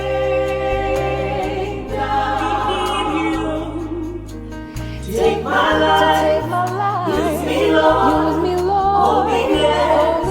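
Live gospel worship music: sustained chords over a bass guitar playing held low notes. About five seconds in, singers come in with wavering held notes that have no clear words.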